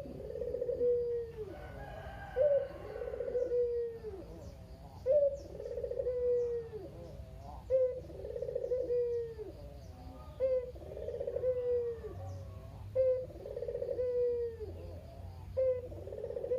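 Barbary dove (burung puter) cooing its repeated 'kugeru' call: about seven calls, one every two and a half seconds, each a short rising note followed by a longer falling, rolling coo. Faint high chirps sound in the background.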